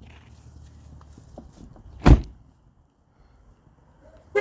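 A car door shutting with a single heavy thump about two seconds in; the low background hum stops with it.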